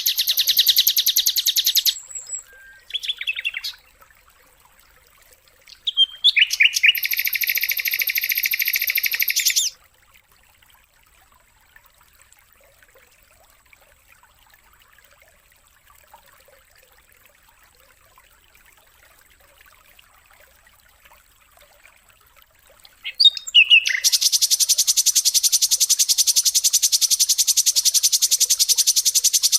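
Bird training recording of high, fast, buzzing songbird trills in bursts, with a long pause of near silence in the middle, then a continuous trill starting about 24 seconds in.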